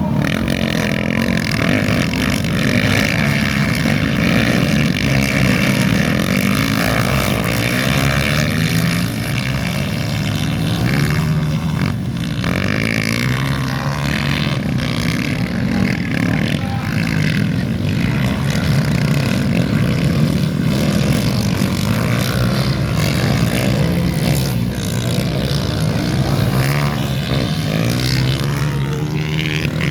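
Several dirt-bike engines racing around a track, their pitch rising and falling as the riders rev up and back off, overlapping without a break.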